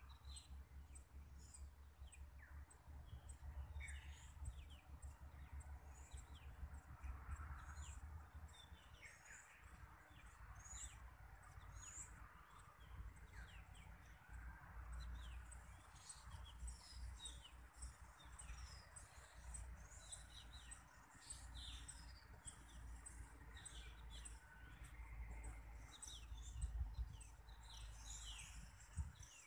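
Faint, repeated chirping of small birds, with a low rumble on the microphone underneath.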